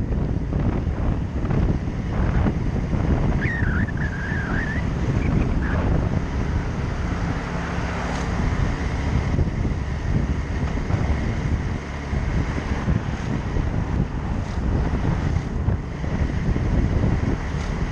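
Wind buffeting the microphone of a moving motorcycle, with the bike's engine and road noise running steadily underneath.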